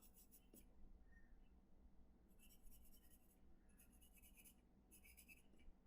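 Faint scratching of shading strokes on paper, in four short spells of quick back-and-forth strokes.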